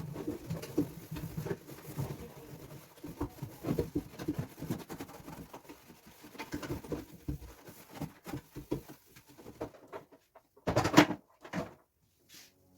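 Plastic fridge compartments being washed by hand in a sink: irregular knocks, clatter and rubbing, with a louder clatter about eleven seconds in.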